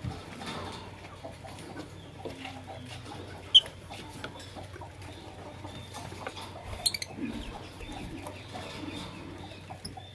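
Lovebirds chattering and chirping in short scattered calls over a steady low hum, with sharp clicks, the loudest about three and a half seconds in and a few more together near seven seconds.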